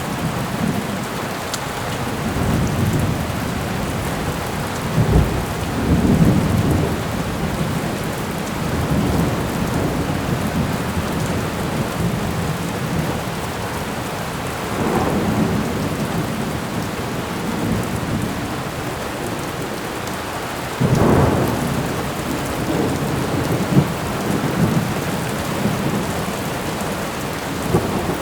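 Thunderstorm: steady rain falling, with thunder rumbling up out of it several times, the strongest rolls about 5, 15 and 21 seconds in.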